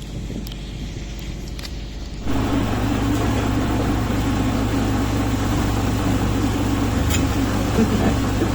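A few light clicks over quiet background noise, then about two seconds in a steady machine hum starts abruptly and runs on evenly.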